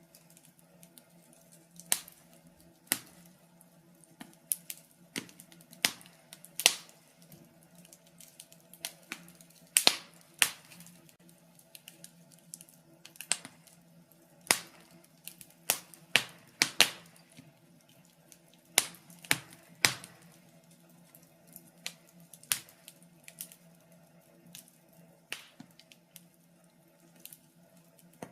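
Wood fire crackling in a fireplace: irregular sharp pops and snaps, some loud, coming in clusters and then thinning out, over a faint steady low hum.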